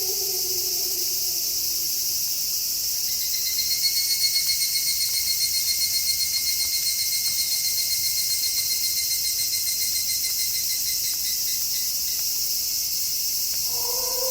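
Night insect chorus with a cricket's steady pulsing trill that starts a few seconds in and stops near the end. A falling wolf howl fades out at the start, and another wolf howl begins just before the end.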